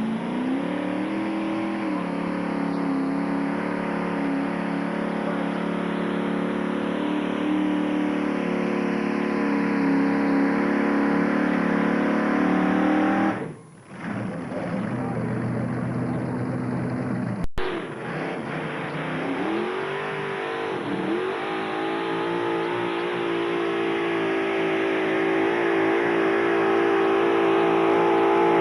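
Modified pulling tractor's engine revving up and held at high throttle under load. The note drops away briefly about halfway through, and after an abrupt break it revs up again and holds steady.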